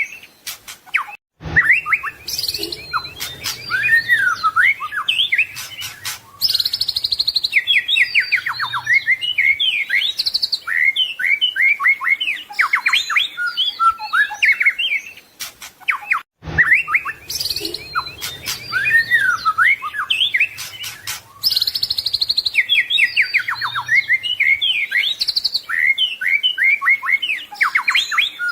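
White-rumped shama (murai batu) singing a long, varied song of fast whistles, trills and rapid repeated notes. The recording is looped: after a brief break about a second in, the same passage plays again from about 16 seconds in.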